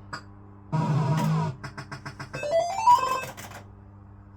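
Barcrest MPU3 Autoroute fruit machine's electronic sound effects: a buzzy tone about a second long, then a run of quick beeps, a rising run of stepped tones, and a few more beeps.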